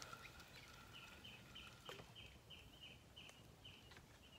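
A bird calling faintly: a run of about ten short, evenly spaced notes, roughly three a second.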